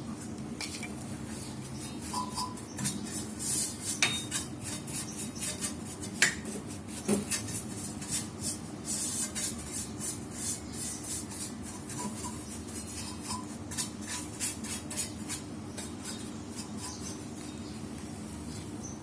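Light metallic clinks and runs of rapid clicking as hand tools work on metal brake parts, over a faint steady hum.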